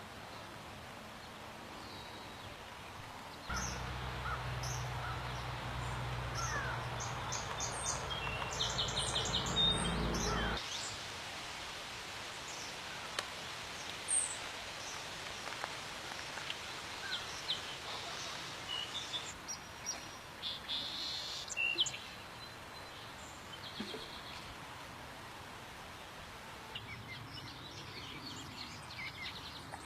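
Small birds chirping and trilling in short scattered calls over a faint steady hiss. From about three and a half seconds to ten seconds in, a louder stretch with a low steady hum under denser bird calls cuts off suddenly.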